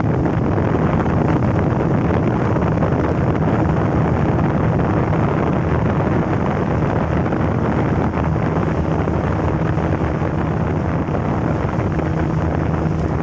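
A boat's outboard motor running steadily while the boat is under way, with heavy wind noise on the microphone.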